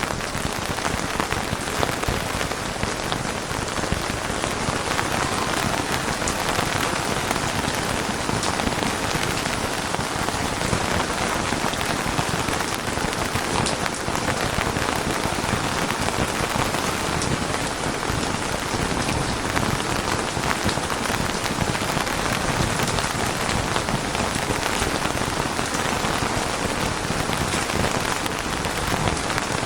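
Steady rain falling on a surface, a dense even patter of drops with occasional sharper individual drop ticks.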